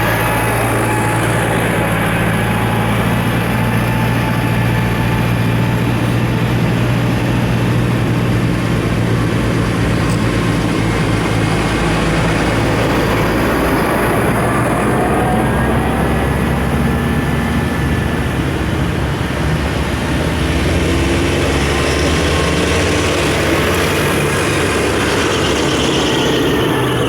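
Farm tractors' diesel engines running steadily as they drive past in a line. The low engine note changes about halfway through as one tractor gives way to the next.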